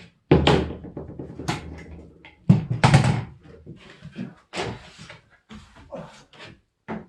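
Wooden door frame being knocked and banged into place: a run of sharp thuds, the loudest two with a hollow low ring, then a string of lighter knocks.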